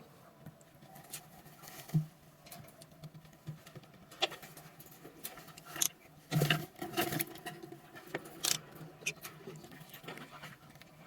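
Lovebirds moving about in a cage: scattered light taps, scratches and rustles, busiest about six to seven seconds in.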